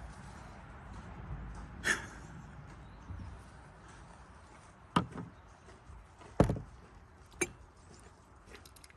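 A few separate sharp knocks or clicks, about four spread out, the loudest one about six and a half seconds in, over a faint steady background hiss.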